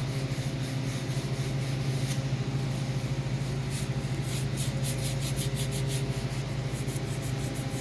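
Rubbing and scrubbing on greasy tractor metal as degreaser is worked in by hand, with repeated short strokes strongest in the middle of the stretch, over a steady low hum.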